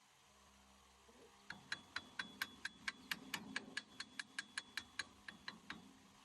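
A steady run of about twenty sharp, evenly spaced clicks, roughly five a second, with a faint ringing tone behind them. It starts about a second and a half in and stops shortly before the end.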